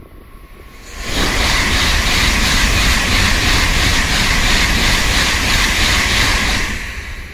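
Tokaido Shinkansen train passing at high speed: a loud rush of wheel and air noise that comes on suddenly about a second in, holds steady with a quick, even pulsing as the cars go by, and drops away shortly before the end.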